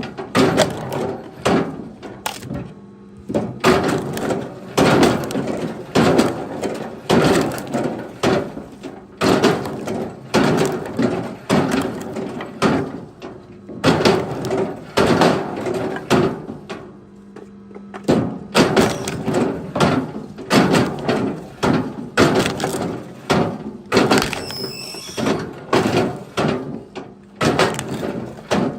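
Wooden knocks and clatter, one or two a second in uneven clusters, as of firewood logs being thrown and landing on each other, over a steady low hum.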